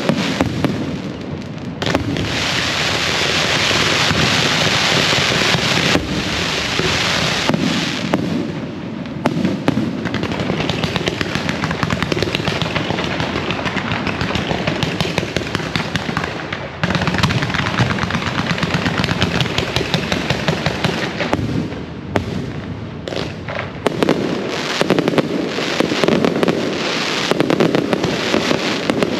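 A dense, unbroken barrage of firecrackers and fireworks: rapid crackling pops over a hiss, with heavier bangs mixed in. It is thickest and hissiest for several seconds early on, then deeper bangs take over.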